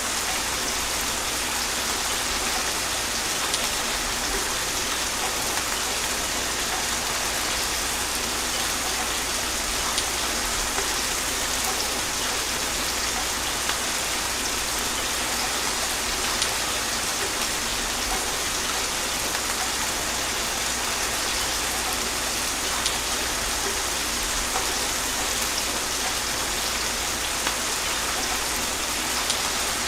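Steady gentle rain falling, an even hiss with scattered small drop ticks and no thunder.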